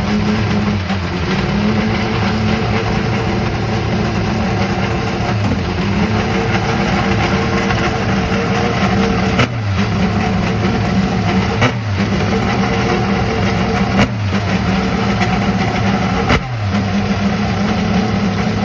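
IndyCar 2.2-litre twin-turbo V6 engine running at a fast, steady idle while warming up. In the second half the throttle is blipped four times in short, sharp stabs, and the idle dips briefly after each one.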